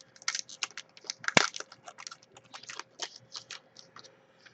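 Crinkling and crackling of a foil trading-card pack being opened and its cards handled: a quick run of crisp crackles and clicks, with one louder tap about a second and a half in, thinning out near the end.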